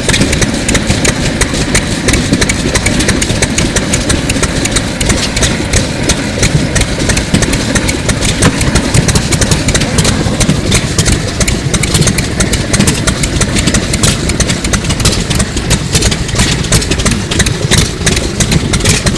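Sato 2 hp hot-bulb semi-diesel engine, about 1933, running steadily with an even, fast mechanical clatter.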